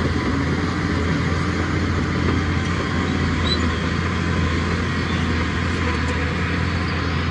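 Heavy diesel engine running steadily, its low drone holding even throughout.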